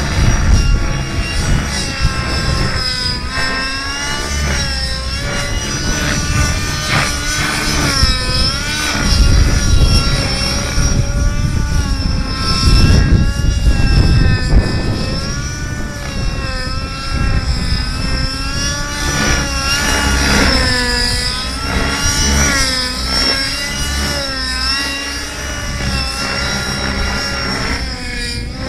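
Engine-powered radio-controlled model helicopter in flight. The engine and rotor pitch swing up and down again and again, every second or two, as it is thrown through back-and-forth aerobatics such as tic-tocs.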